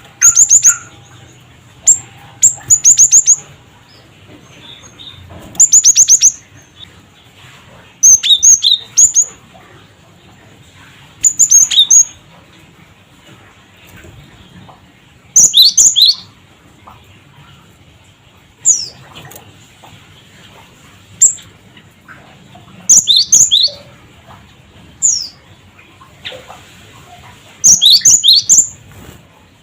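Cinereous tit (gelatik batu) calling: short, quick series of sharp high chirps, repeated every two to three seconds, the 'cret cret' and 'wucit' calls.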